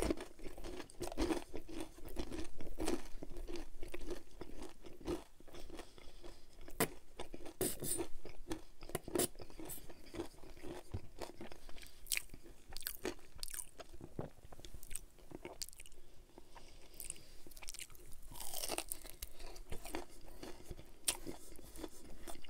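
Close-miked eating of a breaded fried chicken tender in barbecue sauce: sharp crispy crunches from the coating and chewing, coming irregularly throughout.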